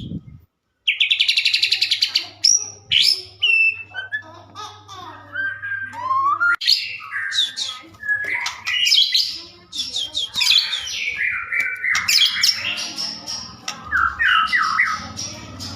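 A white-rumped shama (murai batu) singing a long, loud, varied song. It opens about a second in with a fast rattling trill, then runs on through quick sliding whistles and chattering phrases.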